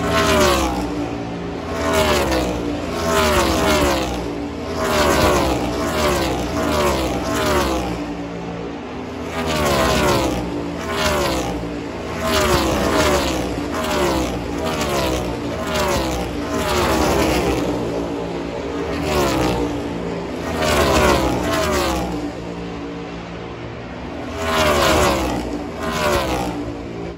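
NASCAR Cup Series stock cars' V8 engines at full speed on track in practice, passing one after another, each engine note dropping in pitch as a car goes by, every second or two.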